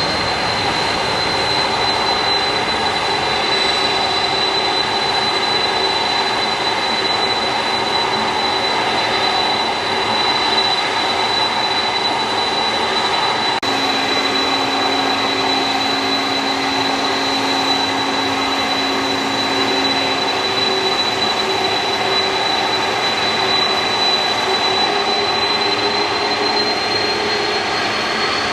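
Jet airliner engines running with a steady roar and a high, constant whine; the whine rises slightly near the end.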